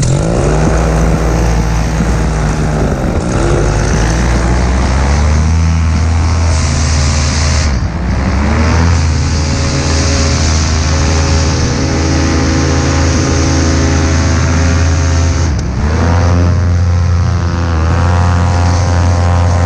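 AC Nitro 200 running with a loud, steady buzzing noise. The pitch dips and climbs back a few times, near the start, about 8 seconds in, and again around 16 seconds.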